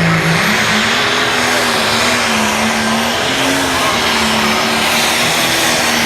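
Light pro stock pulling tractor's diesel engine running hard at high revs during a pull. Its note steps up about half a second in, then holds with slight wavers.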